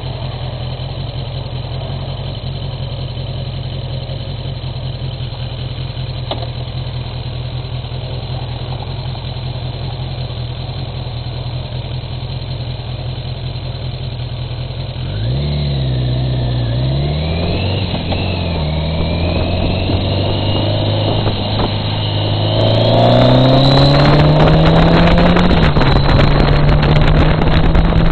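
Motorcycle engine idling steadily, then about halfway through revving up and pulling away, its pitch rising and dropping through gear changes. Near the end it climbs again as wind buffets the bike-mounted microphone.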